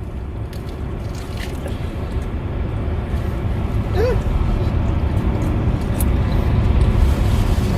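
Low, steady rumble of a car engine idling, growing gradually louder, with a few faint clicks and a brief vocal sound about four seconds in.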